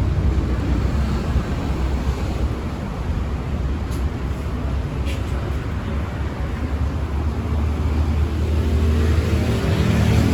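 Street traffic: motor engines running steadily with a low rumble, one growing louder near the end as it passes close.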